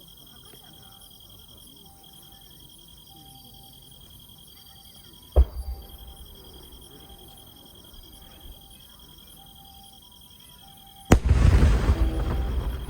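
Fireworks bursting overhead: a single sharp boom about five seconds in, then a louder bang near the end followed by about two seconds of noisy crackle and echo. Insects chirp steadily underneath.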